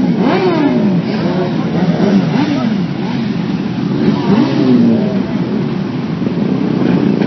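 Car engines revving over and over, the pitch climbing and falling again and again, with overlapping revs.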